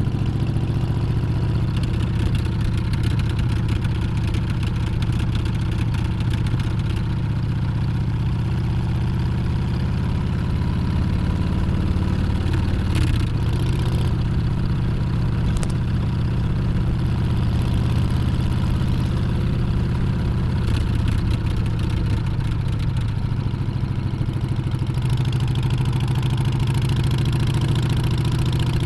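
Harley-Davidson Street Bob's Milwaukee-Eight 114 V-twin running steadily while being ridden, with only slight rises and falls in engine pitch.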